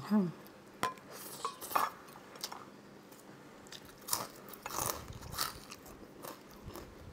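Close-up crunching bites and chewing of crispy fried tuyo (dried fish), in irregular bursts, after a short hummed 'mm' at the start.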